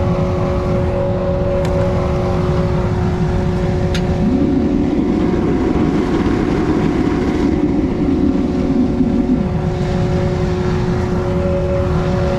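Homemade crucible furnace's burner and blower running steadily: a continuous rushing rumble with a constant hum. From about four seconds in, the rush turns rougher and louder for about five seconds, and two sharp ticks sound in the first four seconds.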